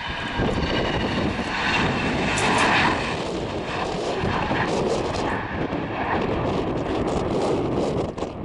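Gulfstream business jet's twin turbofan engines at takeoff power, a steady jet roar that swells to its loudest about three seconds in, with a faint high fan whine in the first few seconds.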